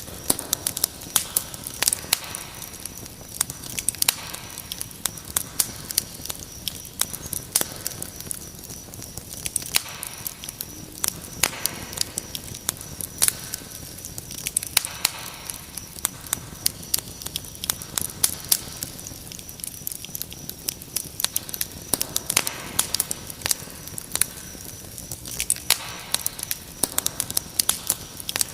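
Wood fire crackling with frequent sharp pops and snaps, over a steady high cricket trill.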